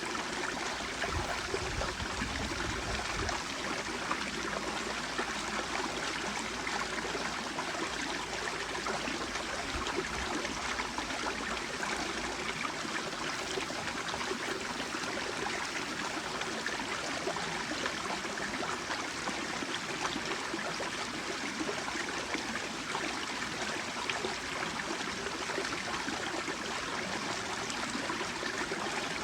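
Small mountain stream flowing and babbling over rocks, steady throughout.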